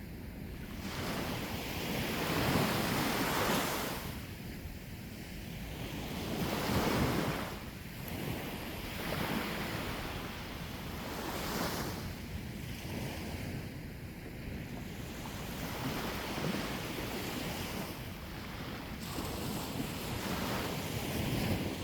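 Sea waves breaking and washing onto the shore, swelling and fading every few seconds, with wind buffeting the microphone.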